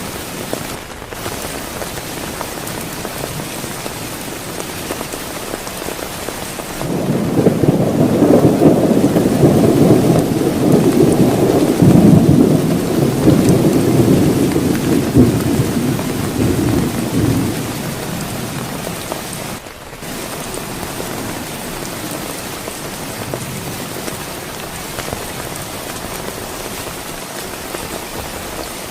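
Steady heavy rain with a long rolling rumble of thunder that starts about seven seconds in, swells, and dies away about ten seconds later.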